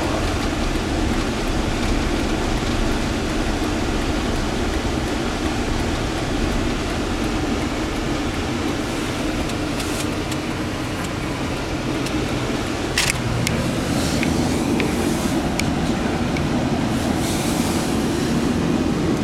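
Steady rumble of a car driving on a snowy road, engine and tyre noise together, with a few sharp clicks in the second half.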